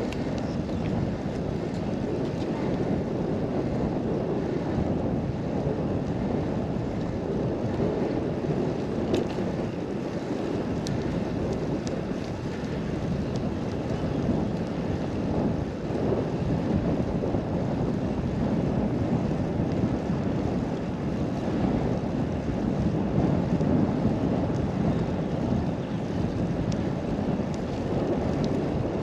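Steady wind rushing over the microphone, rising and falling a little in strength.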